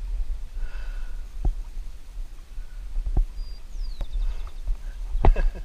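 Outdoor ambience of birds calling in short chirps, one a quick falling whistle, over a steady low rumble, with three sharp knocks spaced over the few seconds.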